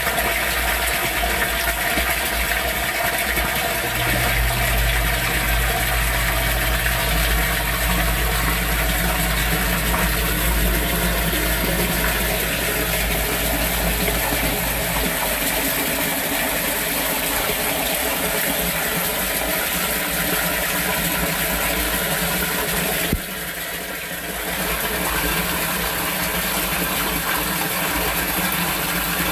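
Torrential rain pouring steadily. A low steady hum joins it a few seconds in and lasts about ten seconds, and the overall sound dips briefly for about a second a few seconds before the end.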